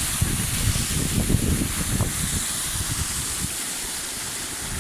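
Waterfall rushing in winter, a steady hiss of falling water. Low wind buffeting on the microphone comes and goes, then drops away about three and a half seconds in.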